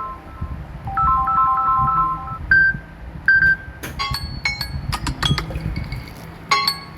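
Samsung Galaxy S24 ringtone and notification tones: a quick three-note electronic phrase repeating, then about 2.5 seconds in a couple of single bright tones, followed by a run of short, crisp plinking chimes.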